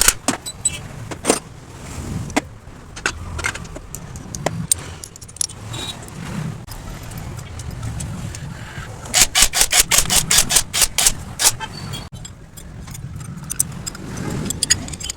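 Metal tools and engine parts clicking and clanking while a Hero Glamour motorcycle engine is being fitted, with a quick run of about a dozen metallic clicks in the middle.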